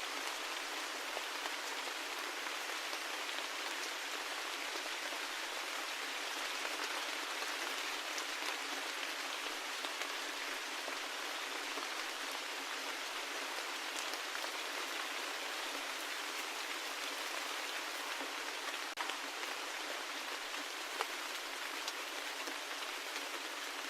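Steady rain falling: an even hiss with scattered faint drop ticks and no low rumble.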